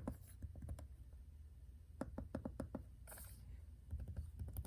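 Keys of a freshly replaced 2016–2017 MacBook Pro butterfly keyboard being tapped in quick runs of light clicks, as the new keyboard is tested. There are three runs of clicks, with a short hiss between the second and third.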